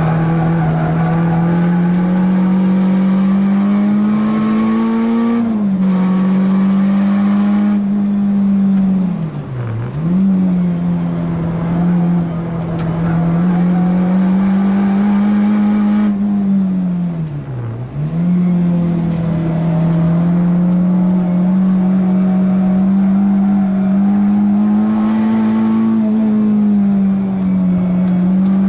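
Renault Clio 2 RS's 2.0-litre four-cylinder engine heard from inside the cabin at full throttle on track. The pitch climbs steadily and drops quickly at a gear change about five seconds in. Around ten and again around eighteen seconds in the revs fall sharply and pick straight back up.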